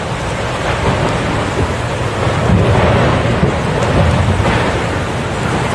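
Severe thunderstorm: heavy rain and wind noise throughout, with a low rumble swelling louder through the middle.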